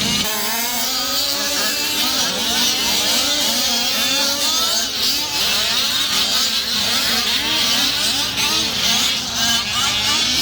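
Several gas-powered large-scale RC cars, including Losi 5T trucks, racing: their small two-stroke engines rev up and down over one another, pitches rising and falling as they throttle and lift.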